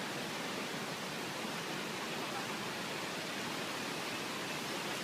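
Steady rushing of a flowing river, an even noise with no breaks.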